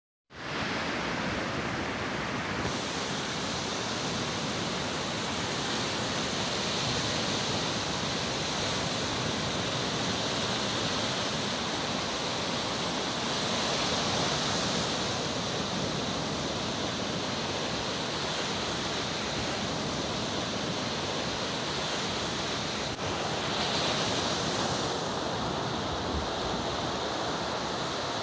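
Mediterranean surf washing onto the shore: a steady rushing wash of waves that swells now and then.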